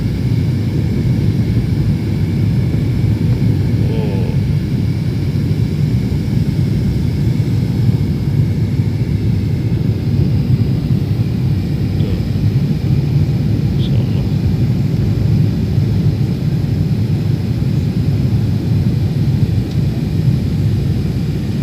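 Steady low rumble of jet engine and airflow noise inside an airliner's passenger cabin during the descent before landing.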